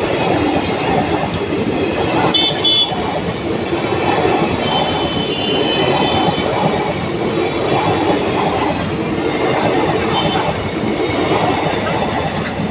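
Indian Railways passenger coaches rolling past at close range: a loud, steady rumble and clatter of wheels on the rails, with faint high squeals a couple of times.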